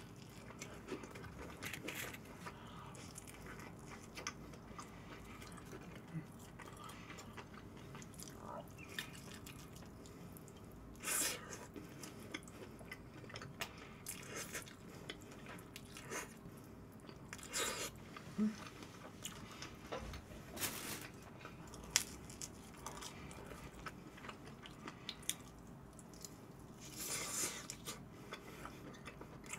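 Close-miked eating: quiet biting and chewing of pizza and sauced fried chicken, with a handful of short, louder mouth and bite sounds scattered through.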